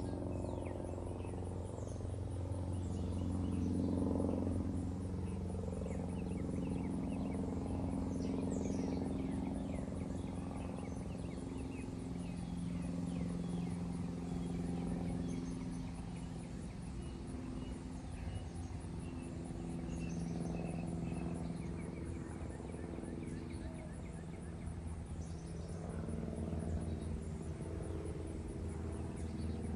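Outdoor park ambience: a steady low mechanical drone, slowly rising and falling in level, carries faint high chirps from birds and insects above it.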